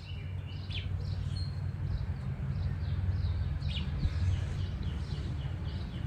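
Small birds chirping, with many short calls scattered throughout, over a steady low rumble.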